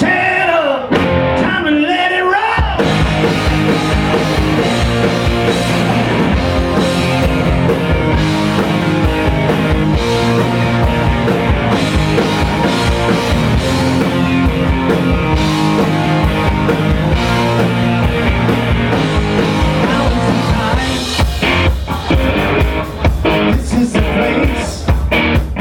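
Rock band music: a voice sings a line, then the full band with electric guitar and drums comes in about three seconds in. Near the end the band plays short, choppy stabs.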